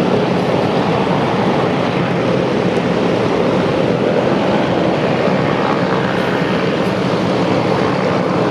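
Douglas DC-3 / C-47 Dakota twin radial piston engines and propellers running, a steady, loud, even engine noise.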